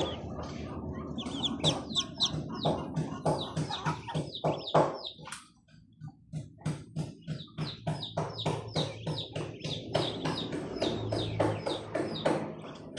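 Chickens clucking in quick repeated notes, with smaller birds chirping, over background music. The sound drops away briefly about halfway through.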